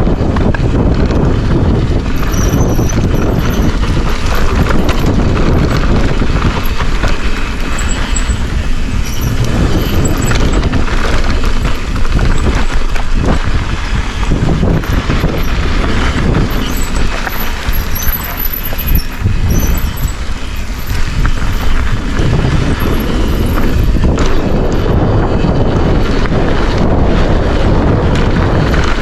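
Loud wind noise on the microphone and the rumble of a Forbidden Dreadnought mountain bike's tyres over a rough dirt trail at speed on a downhill run.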